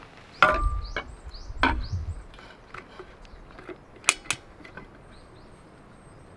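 Two heavy knocks about a second apart, then two sharp clicks close together a few seconds later.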